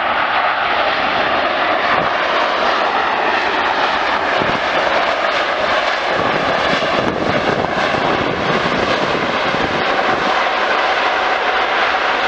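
Jet engines of a large wide-bodied airliner landing, a loud steady rush with faint steady whining tones.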